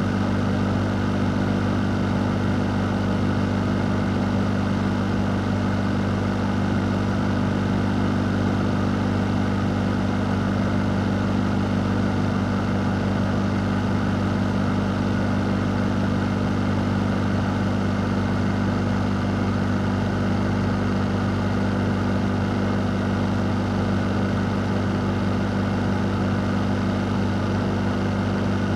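A fan running steadily: an even rush of air over a constant low hum, with no change throughout.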